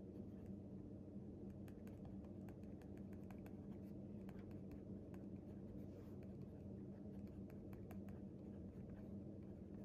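Faint scratching and tapping of a pen writing on paper, in many short strokes, over a steady low hum.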